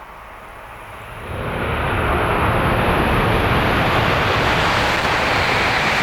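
Tohoku Shinkansen train passing through a station at speed without stopping: a loud rush of air and rail noise builds suddenly about a second in and then holds steady.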